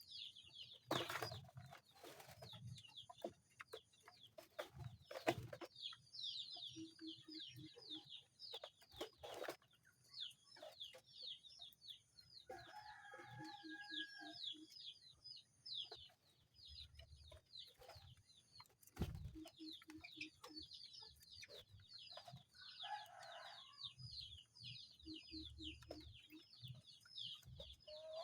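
Faint chickens: a steady stream of high, quick falling peeps like chicks, with short runs of low clucking several times and a few sharp knocks.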